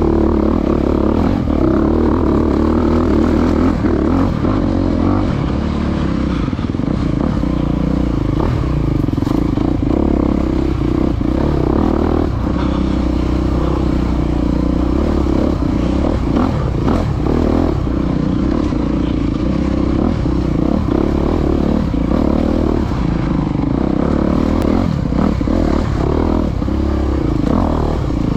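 Dirt bike engine running steadily under load while being ridden over rough ground, with frequent short knocks and rattles from the bike.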